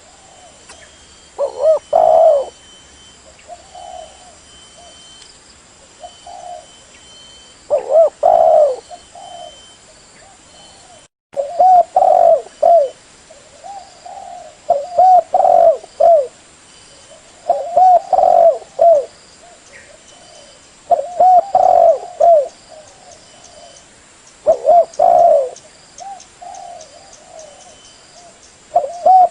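Spotted dove (terkukur) cooing: a loud phrase of several quick rolling coos every few seconds, with softer coos in between.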